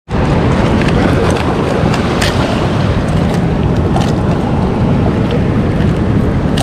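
Steady rushing noise of wind on the microphone and ocean surf, with a few faint clicks.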